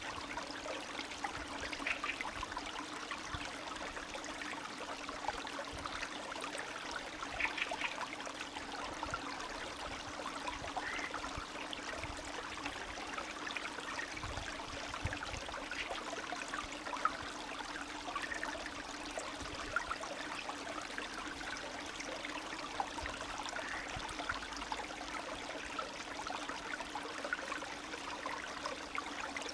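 Small spring stream of snowmelt water trickling and babbling steadily over stones, with many small splashes and gurgles.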